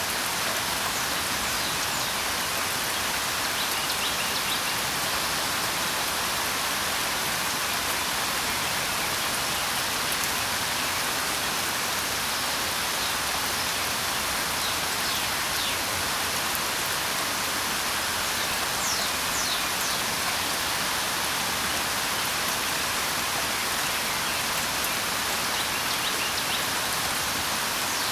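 Steady rain falling, an even hiss, with faint brief bird chirps heard now and then.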